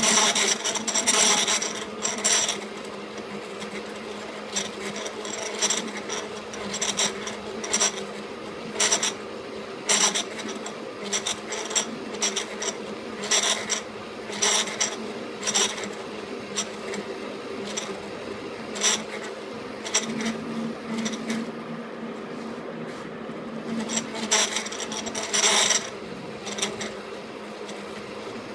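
KART E1N metal lathe running with a steady gear hum, overlaid by irregular scratchy ticks and scrapes from the work.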